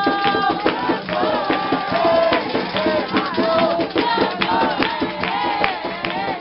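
Group singing a chant for Xangô over fast, dense drumming, with held, bending sung notes.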